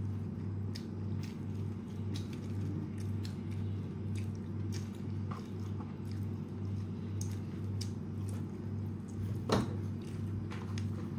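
Close-up chewing and small mouth clicks of a person eating French fries, over a steady low hum that pulses about twice a second. About nine and a half seconds in comes one brief louder sound with a falling pitch.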